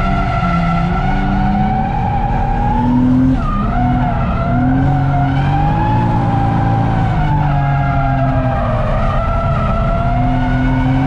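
The turbocharged straight-six of a Toyota JZX100 Mark II, heard from inside the cabin while drifting on track. It revs up and down repeatedly with the throttle, with a sharp drop about three seconds in, over steady tyre noise.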